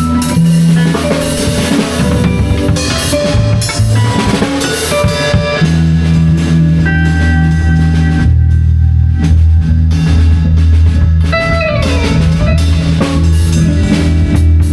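A live band improvising: a drum kit with busy hits and cymbals for the first few seconds, then long sustained low bass notes with guitar notes held and sliding over them.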